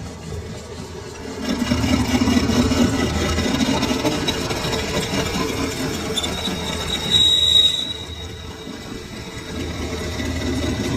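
Lathe running with a cutting tool working a steel sugarcane-crusher roller. The metal cutting grows louder about a second and a half in, and a brief high squeal sounds near the end.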